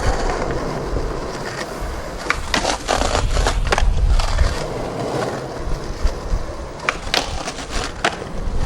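Skateboard wheels rolling on rough pavement with a steady rumble, louder in the middle, and several sharp clacks of the board or trucks hitting.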